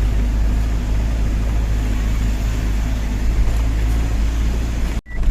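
Tata 1512 truck's diesel engine running as the truck drives, a steady low rumble with road noise. The sound cuts out for a split second near the end.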